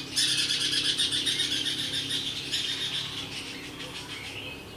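A songbird singing a long, fast, warbling song that fades out about three and a half seconds in.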